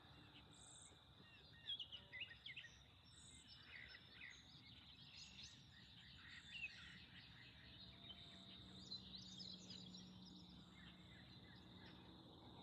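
Faint wild birdsong: scattered short chirps and trills from several birds, busiest about two seconds in and again near nine seconds, over a steady thin high whine.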